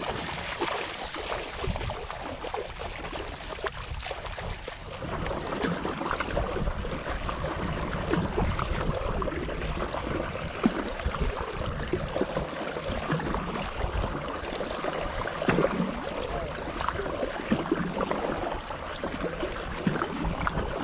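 Water splashing and sloshing around a kayak as it is worked through the water, full of small crackles and splashes that grow busier and louder about five seconds in.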